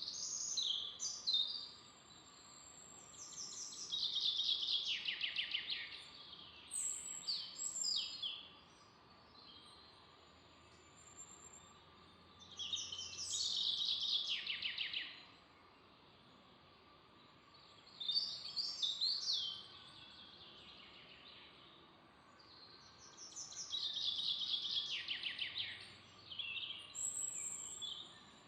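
Songbirds singing in a forest, repeating a loud trilled phrase that sweeps down in pitch, along with shorter high calls, every few seconds. A faint steady hum runs underneath.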